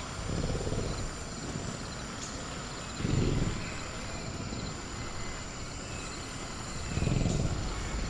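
Low growls of a sound-designed velociraptor, three deep swells a few seconds apart, over a steady high chirring of crickets.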